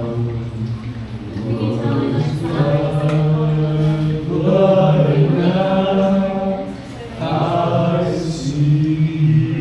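A small group of people singing together unaccompanied, holding long notes in several voices, phrase after phrase.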